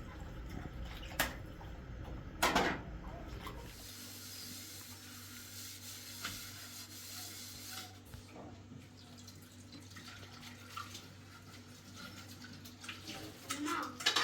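Water running for a few seconds, with a few knocks and clinks before and after it.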